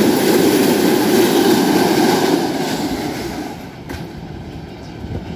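Freight train of double-deck car-carrier wagons running across a steel truss bridge, a loud steady rumble of wheels on rails. The noise fades away over the last couple of seconds as the wagons draw off.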